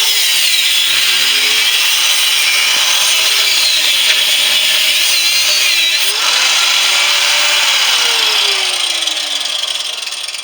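Angle grinder with a cut-off disc cutting into the steel shell of a central air compressor, its motor pitch dipping and recovering as the disc bites. Near the end it is let off and winds down.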